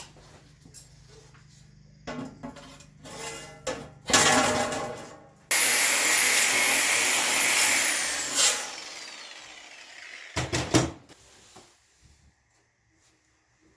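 Knocks and clatter, then a power tool starts abruptly and runs loud and steady for about three seconds before winding down with a falling whine. A sharp knock follows near the end.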